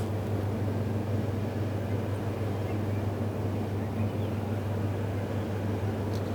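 Steady low background hum at an even level, with no chewing or other events standing out.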